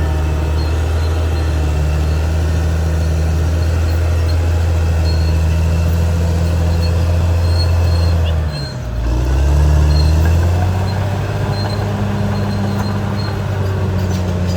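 Caterpillar D6R XL bulldozer's diesel engine running steadily under load. A little past halfway its note drops briefly, then climbs back and settles slightly higher as it revs up again.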